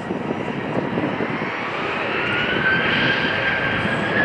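Airliner engines running: a broad rumble with a thin whine that rises slowly in pitch from about halfway through, growing slightly louder.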